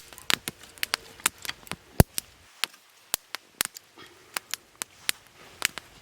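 Newly lit kindling fire crackling as it catches, with irregular sharp snaps a few times a second and one louder snap about two seconds in.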